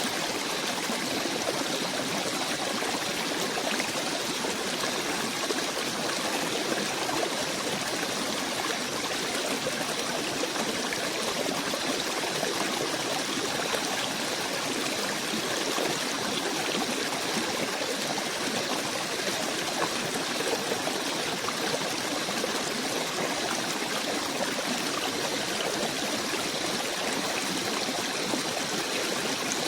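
Small stream flowing steadily: an even, unbroken rush and trickle of water.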